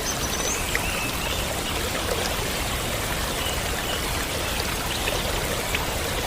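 Small waterfall of clear water pouring and splashing steadily, with scattered small splashes and drips.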